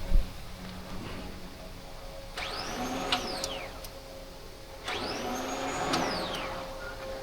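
A small high-speed electric motor run twice, each time for about two seconds: it whirs up to a high whine, holds, then winds down as it coasts to a stop.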